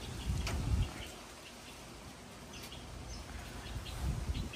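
Small birds chirping in short, scattered calls, with a low rumble on the microphone in the first second.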